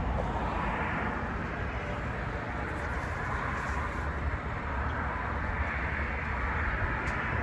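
Steady vehicle noise: an even low rumble with a hiss over it and no distinct events.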